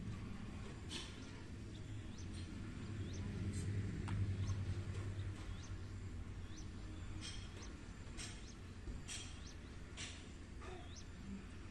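Faint birdsong: scattered short chirps and small upward-curving whistles, with a low steady hum beneath that swells about four seconds in.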